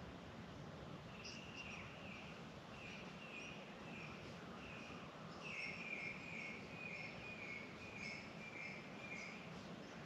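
A bird calling a run of short, slightly falling chirps, about two a second, starting about a second in, with fainter higher chirps from other birds over a steady background hiss.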